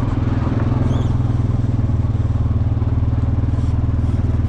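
A small vehicle engine running steadily with an even low pulsing, heard up close.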